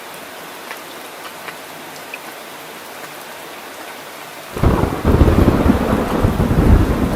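Steady rain hissing with scattered drop ticks. About four and a half seconds in, a loud deep rumble of thunder breaks in suddenly and keeps rolling.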